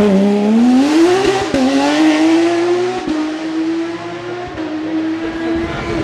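Porsche 997 GT3 rally car's normally aspirated 3.6-litre flat-six under hard acceleration, its pitch climbing and dropping briefly at upshifts about one and a half and three seconds in, then holding a near-steady high note.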